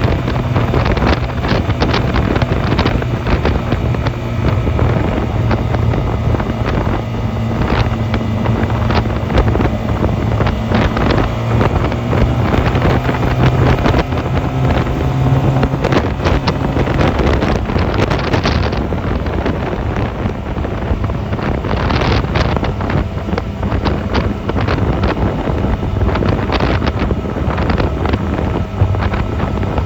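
Honda 250cc motorcycle engine running steadily while riding, with wind buffeting the microphone; the engine note shifts slightly about two-thirds of the way through.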